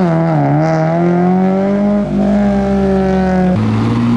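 A modified car's engine revving and pulling away. The pitch dips, then climbs and holds, and falls sharply near the end, as at a gear change or lifting off the throttle.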